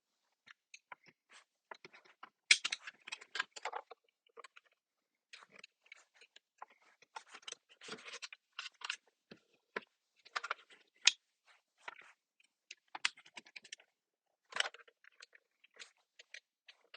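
Plastic overhead map light assembly being handled and pried apart: a string of sharp clicks, crackles and scrapes as its tabs and trim pieces are worked, with the loudest clusters about two and a half, eight, ten and a half and fourteen and a half seconds in.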